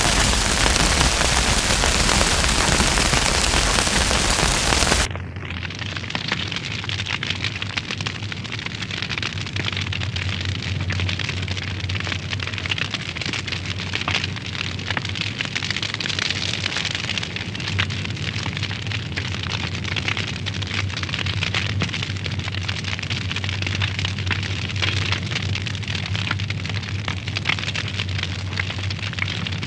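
Wood fire in a fireplace crackling, with dense irregular pops and snaps over a low steady hum. A loud, even hiss, like rain, stops abruptly about five seconds in, where the crackling begins.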